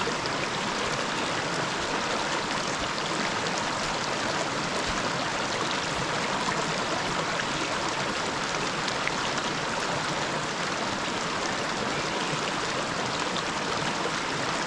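River water running steadily, an even rushing sound with no breaks.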